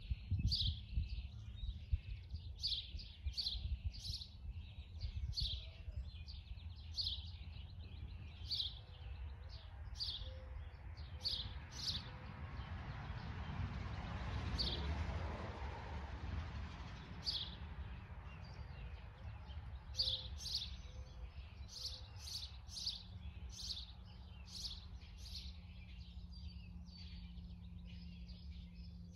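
Small birds chirping, short high chirps repeated about once or twice a second, over a steady low outdoor rumble; a broad whoosh swells and fades in the middle.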